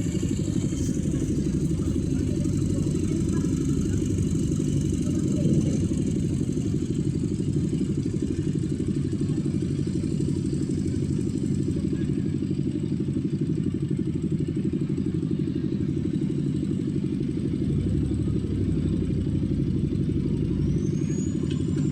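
Heavy machine's engine running steadily: a dense low rumble with quick even firing pulses and no change in speed, briefly louder about five seconds in.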